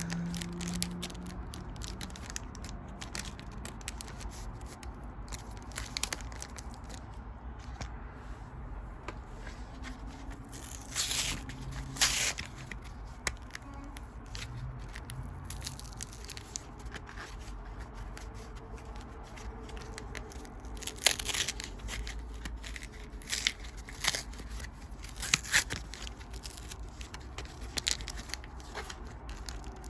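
Pokémon trading cards and foil booster-pack wrappers being handled: a steady run of small flicks, taps and rustles, with a few louder crinkles and tears about eleven seconds in and again past twenty seconds.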